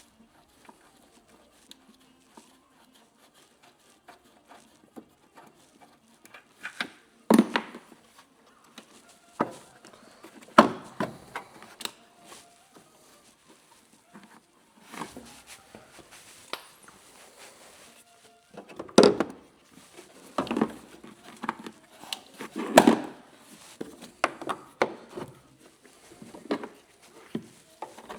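Irregular knocks and clicks of tools and parts being handled while a coilover is removed from the car, with a few louder knocks among softer clicks.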